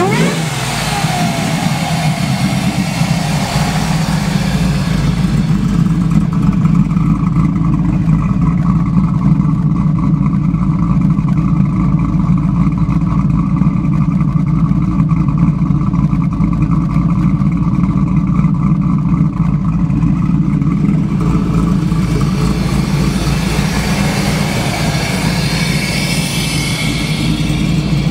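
Ford SVT Lightning's V8 with a 2.3-litre Whipple supercharger, running with a steady, unchanging drone. A higher hiss and rush fades about five seconds in and comes back near the end.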